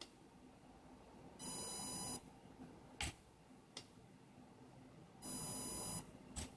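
Brushless electric motor giving two short, steady, high-pitched whines, each under a second and about four seconds apart, with sharp clicks between them. This is the strange, jerky throttle response the owner is showing.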